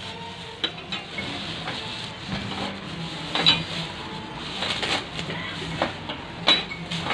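A series of sharp clinks and knocks, about seven, the loudest about three and a half and six and a half seconds in, over a steady low hum.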